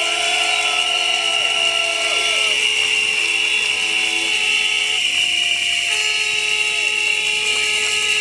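A protest crowd blowing many whistles at once, a dense shrill din, with several horns holding lower notes that start and stop at different times.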